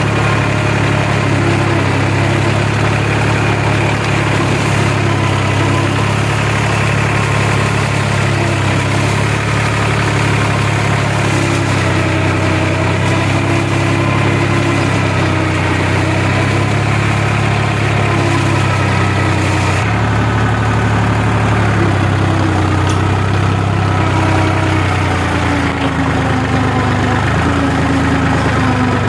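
New Holland tractor's diesel engine running steadily while it drives a Shaktiman rotavator, with a small change in its note about two-thirds of the way through.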